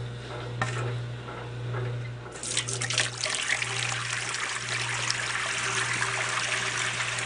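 Water hose spraying into the tub of a Kenmore wringer washing machine, a steady rushing hiss that starts about two seconds in, rinsing the dirt out of the tub. A steady low hum runs underneath.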